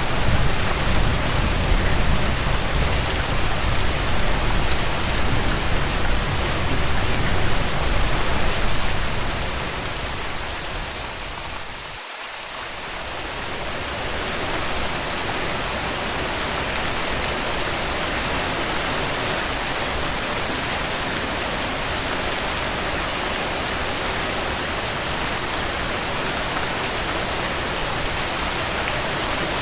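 Steady rain falling on a tent. A low rumble under it in the first few seconds fades away around twelve seconds in, and the rain then runs on evenly.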